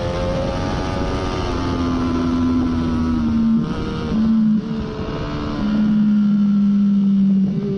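2014 Triumph Daytona 675's three-cylinder engine, breathing through a Hindle slip-on muffler, running hard at speed. Its pitch steps down and up several times, with a short drop in level near the middle.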